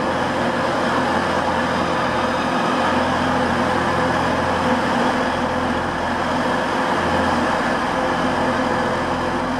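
A stationary passenger train standing at the platform with its engine or onboard equipment running: a steady low hum over a continuous rumble, unchanging throughout.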